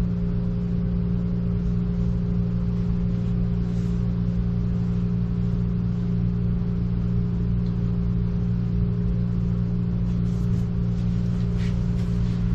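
Steady low machine hum at a constant pitch.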